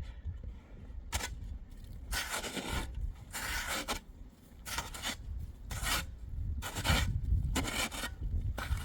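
Repeated rasping, scraping strokes, about one a second, each lasting about half a second.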